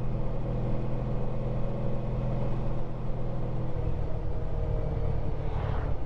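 Honda ST1300 Pan European's V4 engine running at a steady pace while riding, heard over wind and road rumble. About two-thirds of the way through, the engine note changes.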